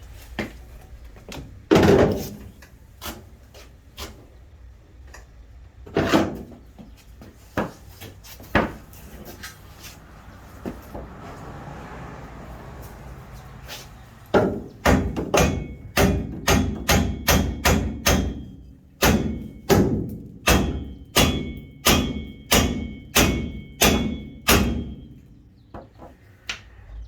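Hammer blows on metal, striking the stuck rear bumper of a Jeep Comanche to knock it loose. A few spaced blows come first. About halfway through, a steady run of about two blows a second begins, many of them leaving a brief metallic ring, and it stops a couple of seconds before the end.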